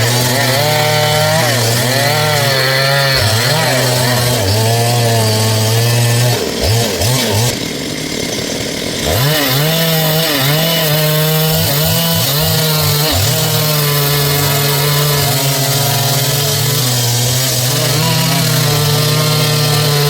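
Stihl MS 382 two-stroke chainsaw running at high revs while cutting through a dry log, its pitch wavering under load. About six seconds in the revs drop off briefly, then it is throttled back up in several quick revs and goes on cutting.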